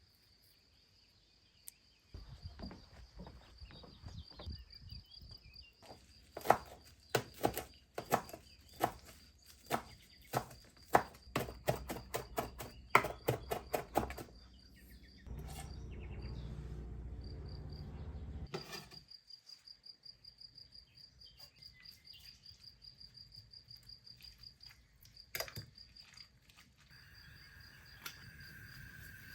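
Kitchen knife chopping fresh parsley on a cutting board: a run of sharp taps, about two a second for some eight seconds, followed by about three seconds of steady low rushing noise and a few scattered taps. A high, steady insect trill carries on behind.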